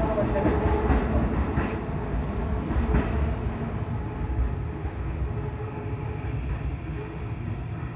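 Electric commuter train pulling away from the station, its low rumble fading as it recedes, with a few wheel clacks over rail joints in the first seconds.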